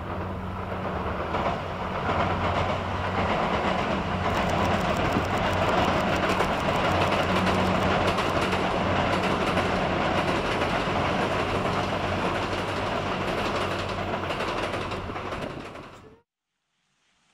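The Twilight Express Mizukaze sightseeing train running across a rail bridge: a steady, loud rumble under a low hum. It cuts off abruptly about sixteen seconds in.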